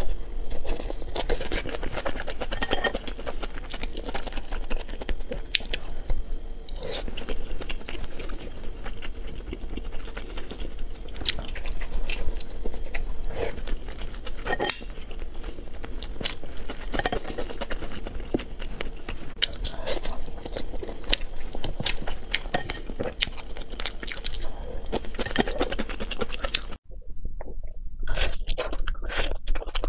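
Close-miked eating: wet chewing, lip smacks and bites of tender braised meat on the bone, with frequent short clicks. The sound breaks off abruptly about 27 seconds in and picks up again with more chewing.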